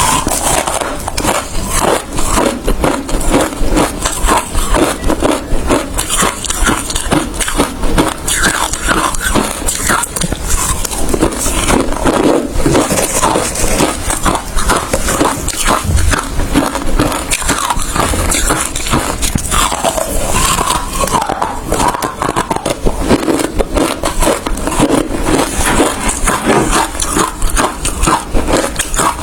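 Hard ice being bitten and chewed close to the microphone: continuous, rapid crunching and crackling.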